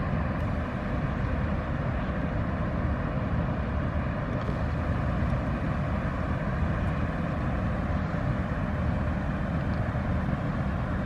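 Steady low rumble of an inland cargo ship's diesel engine under way, with a faint hum running through it.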